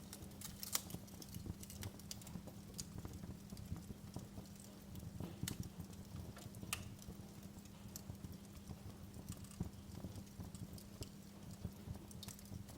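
Wood fire burning in a fireplace, crackling with irregular sharp pops and snaps over a low rumble of flames and a faint steady low hum.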